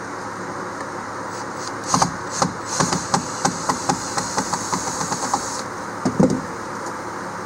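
Hammer knocking on the wood floor of an old ski boat: a quick run of about a dozen sharp taps starting about two seconds in, then two heavier thumps near the end, over a steady background hum.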